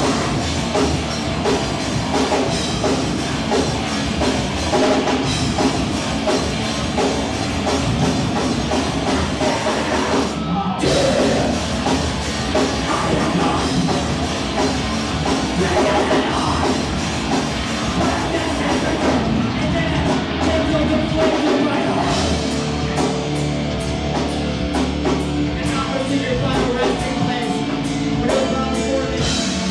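Live rock band playing loud, heavy music with a full drum kit, heard from the crowd; the band stops briefly about ten seconds in, then comes back in.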